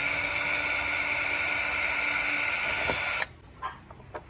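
Power drill motor running at a steady high-pitched whine while driving off a nut from the quad bike's body panels, then cutting off suddenly a little over three seconds in, followed by a few faint clicks.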